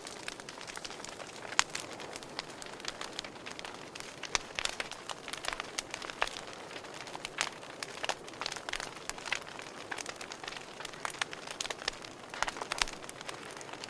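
Wood fire in a fireplace crackling, with irregular sharp pops and snaps over a steady hiss; one pop about a second and a half in is louder than the rest.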